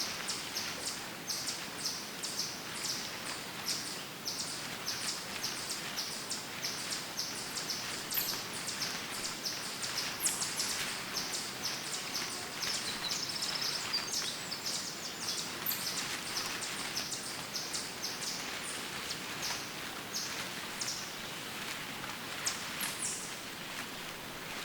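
Woodland birds chirping: short high notes repeated over and over, thickest in the first half, over a steady outdoor hiss.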